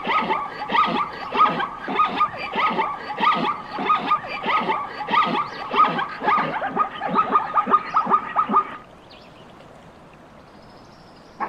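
Dogs yelping in a rapid, overlapping chorus of short downward-sliding cries, several a second. They stop abruptly about nine seconds in, leaving a faint hiss.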